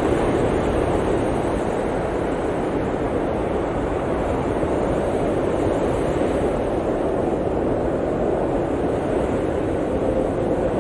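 Blizzard wind blowing steadily: a dense, low rushing noise with no gusts or breaks.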